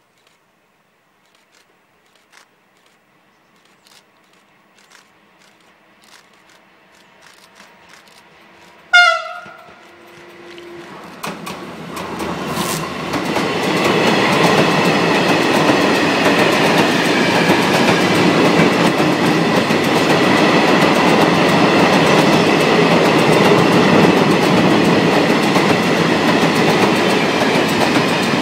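A Siemens Vectron class 192 electric locomotive gives a short horn blast about nine seconds in, followed by a fainter, lower note. It then passes close by with its train of tank wagons, a loud, steady rolling noise with wheels clattering over the rail joints.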